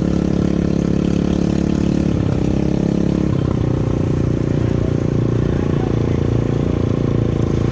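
ATV engine running steadily, its note dropping to a lower pitch between two and three seconds in.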